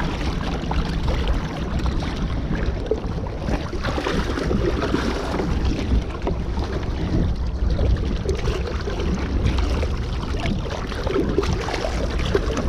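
Steady rush of a fast, flooded river with wind buffeting the microphone, and scattered small knocks and rustles from handling close by.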